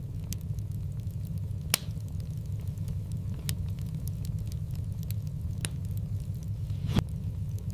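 Wood fire in a fireplace, a steady low rumble of the flames with scattered sharp pops and crackles, the loudest about two seconds in and near the end.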